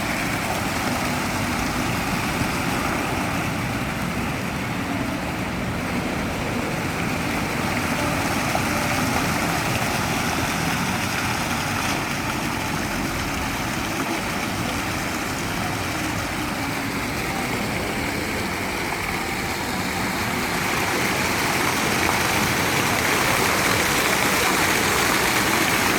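Public plaza fountain's water jets falling and splashing into the basin: a steady rushing, a little louder in the last few seconds.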